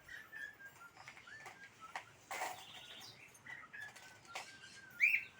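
A small bird singing: thin, high whistled notes and short chirps, with a louder arched chirp near the end. A brief noise cuts in about two and a half seconds in.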